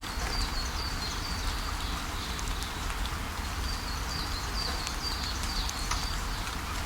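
Steady rain falling, with scattered drops tapping close by. A bird calls twice in runs of short, high, repeated chirps.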